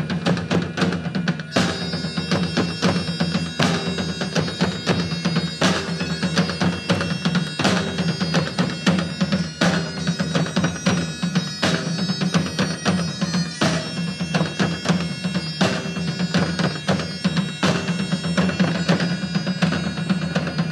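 A band playing an instrumental passage: a steady low drone under a held melody, with a heavy drum stroke about every two seconds.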